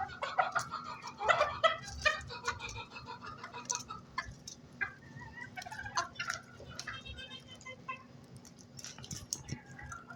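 Hen clucking in short repeated calls, busiest in the first few seconds, with scattered sharp ticks between them.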